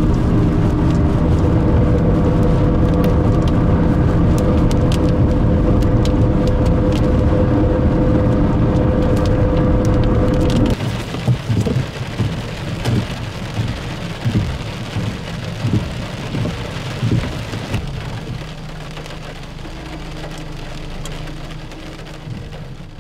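Steady road and engine drone inside a car driving on a highway. About eleven seconds in it changes abruptly to uneven gusts of wind and rain on the car.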